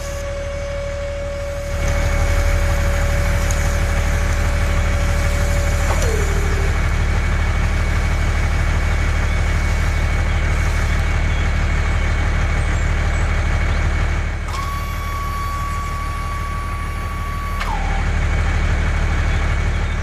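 Steady truck-like engine rumble running throughout, louder for most of the stretch. Over it sits a long held tone that slides down and stops about six seconds in. A higher held tone comes in near the end and likewise slides down as it cuts off.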